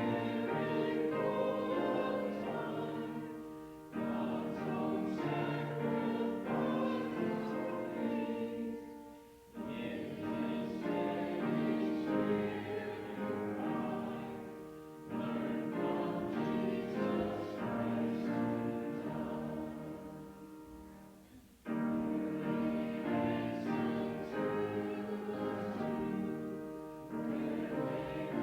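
Congregation singing a hymn in phrases of about five to six seconds, with a short break between phrases.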